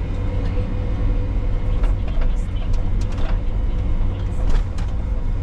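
Heavy diesel engine of gravel-loading machinery running steadily, a deep rumble with scattered clicks and rattles over it.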